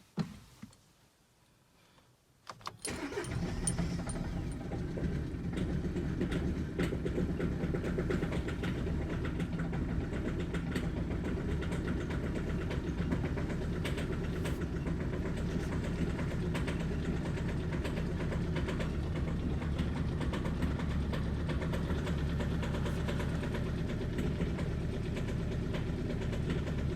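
Audi A3 diesel engine cold-started: it catches about three seconds in and settles into an uneven idle with misfires, which the owner puts down to bad fuel injectors.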